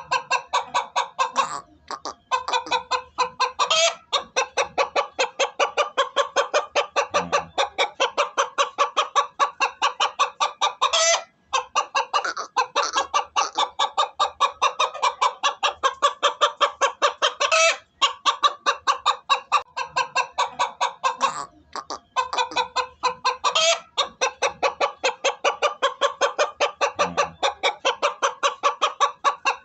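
Chicken clucking in a rapid, steady series of short calls, about four a second, broken by short pauses every few seconds.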